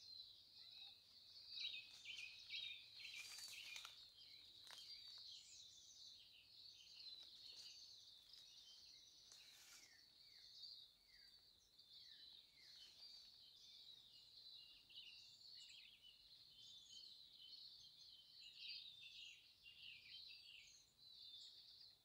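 Faint chorus of several songbirds: continuous high twittering and chirping, with a few short falling whistled notes about ten seconds in.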